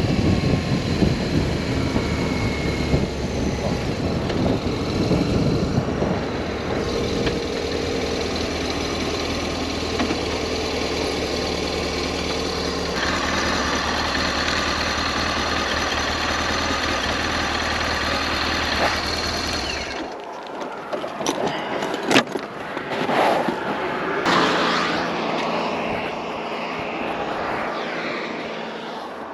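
BMW R1200S boxer-twin engine running steadily under wind and road noise, cutting off abruptly about two-thirds of the way in. Scattered clicks and knocks follow.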